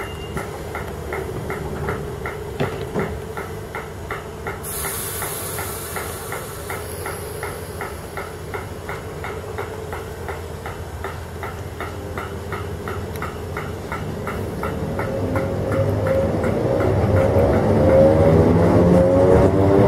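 Electric multiple-unit train at a station platform: a sharp hiss of air about five seconds in, over a regular beeping about three times a second. Near the end the traction motors start a rising whine and grow louder as the train pulls away.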